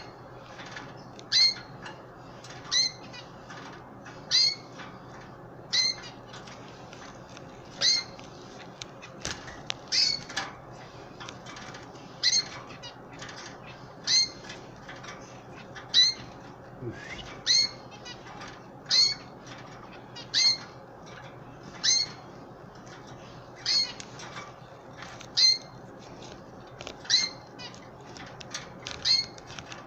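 Canary calling: short, sharp, high chirps repeated about every one and a half seconds, around twenty in all.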